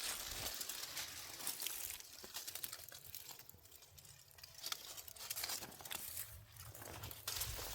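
Irregular rustling and crinkling with many small clicks and crunches, louder near the start and again near the end.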